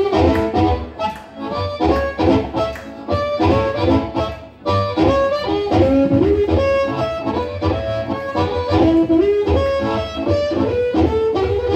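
Live band playing an instrumental break of a blues song, with a melodic lead line over guitar and a steady bass.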